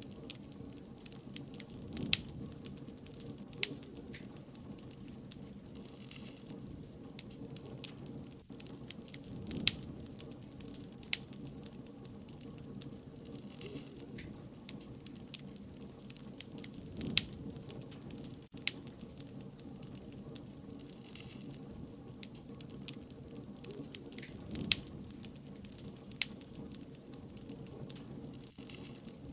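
Wood fire burning, a steady low crackle with sharp pops and snaps at irregular moments.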